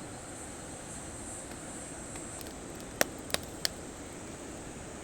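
Campfire of damp firewood giving three sharp pops in quick succession about three seconds in, over a steady hiss. A high insect buzz runs underneath and stops shortly before the pops.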